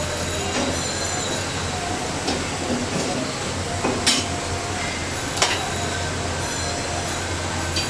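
Oil sizzling steadily in a frying pan of battered potato pieces over a constant low hum. Sharp metal clinks of a spatula against the pan about four and five and a half seconds in, with a few lighter ticks, as the fried pieces are lifted out.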